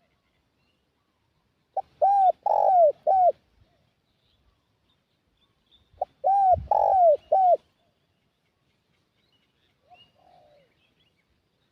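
Spotted dove cooing: two loud phrases of four or five arched coo notes, about four seconds apart, the call of a decoy dove used to lure wild doves. A much fainter coo follows near the end.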